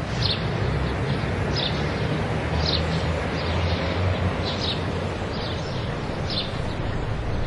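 Outdoor ambience: steady background noise with a low hum, and a small bird giving short high chirps about once a second.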